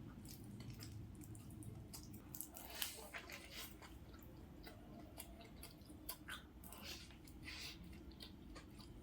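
Close-up mouth sounds of a person chewing a noodle burger: faint, scattered wet smacks and soft clicks, with one sharper click a little under three seconds in.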